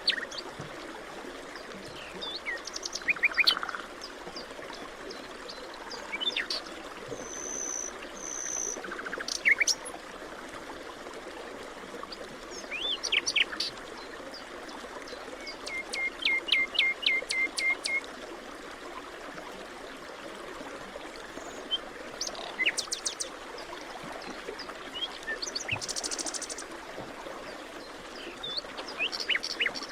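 Forest birds calling and singing at intervals over a steady background hiss, with short chirps and whistles and, a little past the middle, a run of about eight quick repeated notes.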